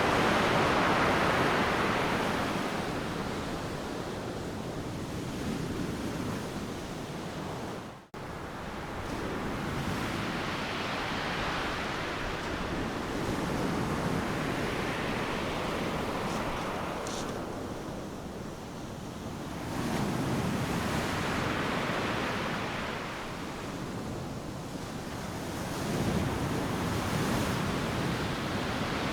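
Ocean surf breaking and washing up a sandy beach, a steady rush that swells with each incoming wave, loudest at the start and surging again later. The sound cuts out for an instant about eight seconds in.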